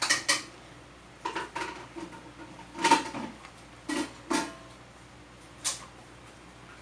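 A series of sharp knocks and clinks of hard objects being handled, about eight of them at uneven intervals, some with a brief ringing tone. The loudest comes about halfway through.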